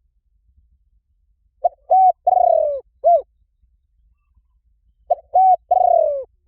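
Spotted dove cooing: two phrases, each a short coo, a second short coo, a long coo falling in pitch and a short closing coo. The second phrase starts about five seconds in. It is the call used to lure wild doves.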